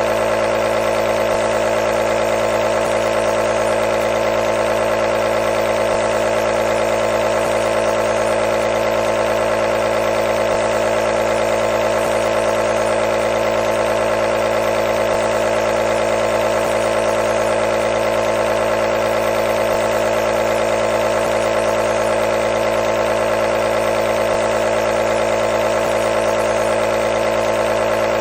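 Nebulizer's compressor motor running with a steady, unchanging hum.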